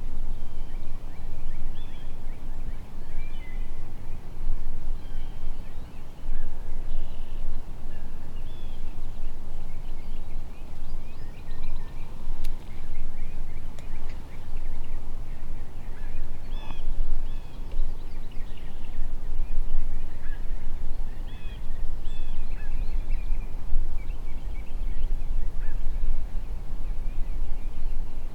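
Short bird calls scattered throughout, among them what sound like turkey calls, over a steady low rumble.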